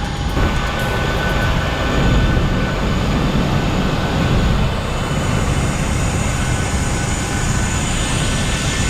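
Jet airliner noise: a steady rumble with a thin high whine, the whine growing stronger about halfway through.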